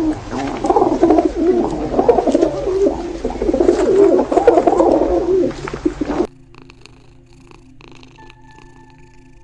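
Animal vocal sounds: a loud, dense, warbling run of calls that cuts off abruptly about six seconds in, leaving a much quieter stretch with faint steady tones.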